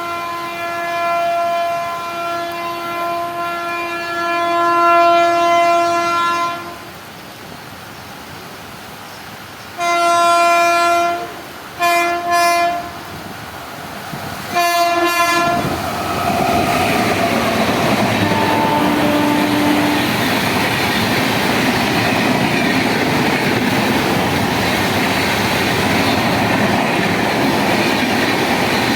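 Express train horn sounding one long blast, then three shorter blasts. The train then runs through the station at speed with a loud, steady rumble and wheel clatter on the rails.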